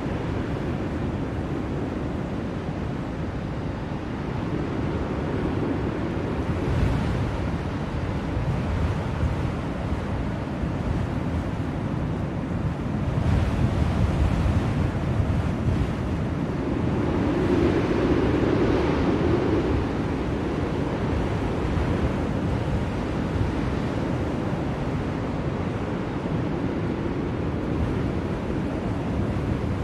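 Blizzard wind blowing steadily, with gusts swelling and fading, the strongest a little past the middle.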